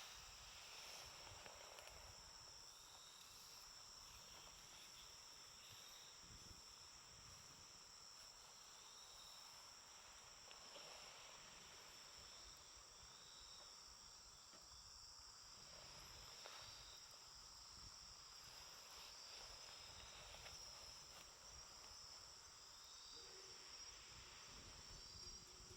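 Faint, steady high-pitched trilling of crickets, with a few soft crackles from a campfire.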